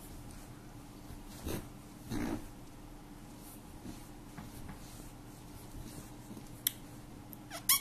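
Pet rabbit making small breathy noises: two short puffs about two seconds in, then a sharp click and a brief rising squeak near the end.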